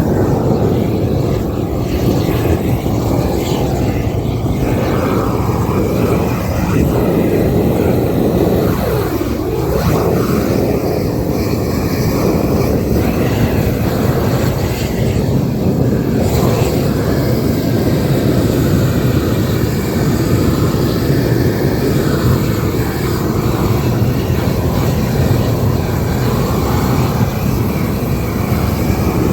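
A propane gas torch burning with a loud, steady roar, heating isogam bitumen waterproofing membrane as it is laid on a hut.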